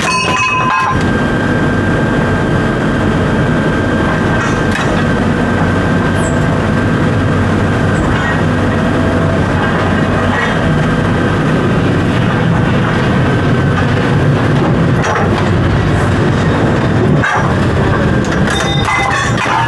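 Large engine running steadily, such as a diesel on heavy equipment or a truck, with scattered metallic clicks and knocks over it.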